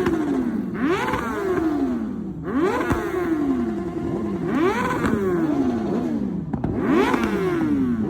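A superbike's engine revved again and again, about every two seconds: each time the pitch shoots up quickly, then sinks slowly as the revs die back.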